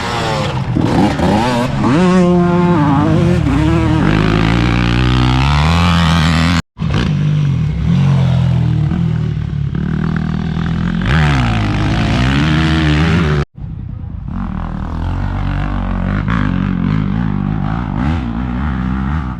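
Motocross dirt bike engines on the track, their pitch rising and falling as the riders rev and shift through corners and jumps. The sound cuts off abruptly twice, about a third and two thirds of the way through.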